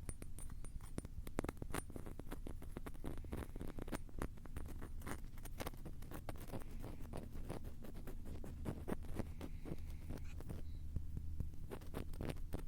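Rapid, irregular tapping and scratching right on a Tascam handheld recorder's microphones, dense crackly clicks with a low handling rumble underneath.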